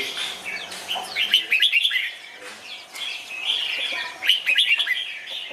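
Red-whiskered bulbul singing: bursts of quick, bubbly whistled chirps, one phrase after another.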